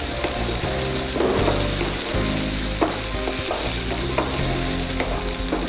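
Cashew nuts, garlic, ginger and sliced onion sizzling in hot oil in a pan while being stirred, with a steady hiss and a few sharp clicks of the stirring utensil against the pan.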